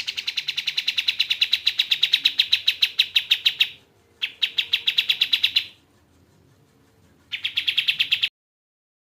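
Kapas tembak bird song: rapid trills of sharp, evenly repeated notes, about ten a second, in three bouts, the first about four seconds long and the next two shorter. The last bout cuts off suddenly about a second before the end, into silence.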